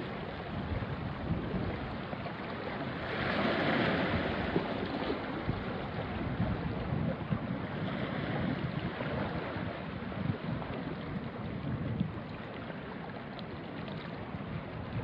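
Small waves washing onto a rocky shore, with a louder wash about three seconds in, and a light breeze rumbling on the microphone.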